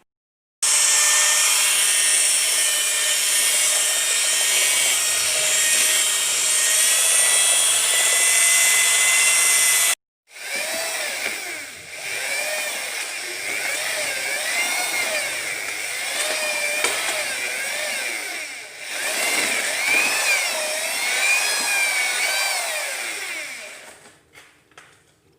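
Electric drill with a mixing paddle running, stirring cement mortar. It runs steadily at first, stops briefly about ten seconds in, then runs again with its pitch wavering up and down as the load changes.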